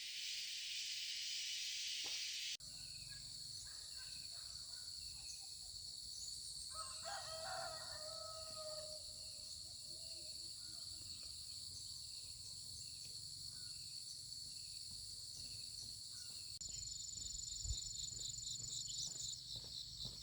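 Steady high insect buzzing and chirping, with a rooster crowing once about seven seconds in.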